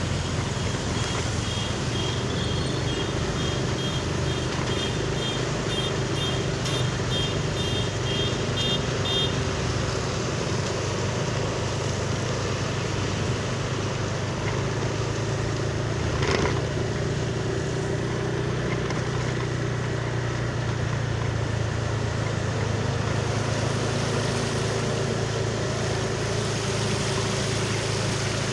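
A Sumber bus's diesel engine running steadily at low speed, with a low, even hum. A high beeping, about two beeps a second, sounds through roughly the first third, and a single short sharp sound comes a little past halfway.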